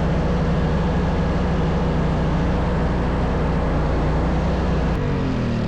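Snow-removal machine's engine running steadily close by, its pitch dropping near the end as it slows down.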